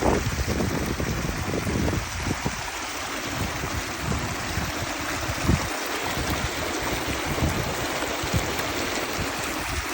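Steady rushing of flowing water, with irregular low buffeting of wind on the microphone.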